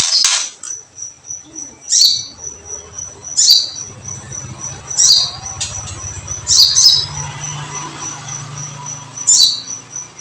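Sharp bird chirps with a crackling attack, the 'kretekan' calls used to rouse songbirds. They come about every second and a half, with one doubled. Under them a cricket keeps up a steady, rapidly pulsing high trill.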